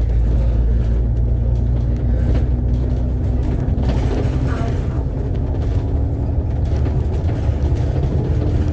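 Double-decker bus heard from inside the cabin while under way: a steady, heavy low rumble of engine and road noise, with a faint drone that shifts slightly in pitch.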